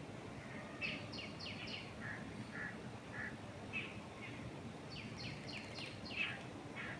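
Wild birds calling over a steady low rush of wind: a quick run of four descending chirps about a second in, repeated about five seconds in, with shorter single chirps scattered between.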